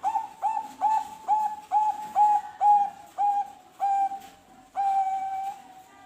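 Zebra dove (perkutut) cooing: a run of about ten short, clear, hooked notes, roughly two a second, ending in one longer held note about five seconds in.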